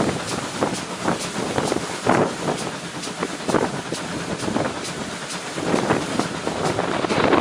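Train running on the line, with a run of short sharp clicks or beats every fraction of a second and wind buffeting the microphone.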